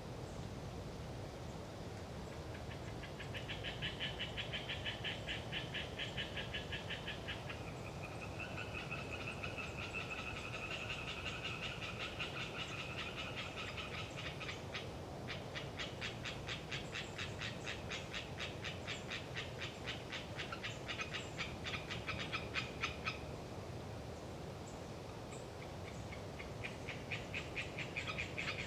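A chorus of Oriental tree frogs (Hyla orientalis), several frogs calling over one another in fast, rattling pulsed trains. The chorus starts a few seconds in, breaks off for a few seconds near the end, then resumes. A steady wind rush runs underneath.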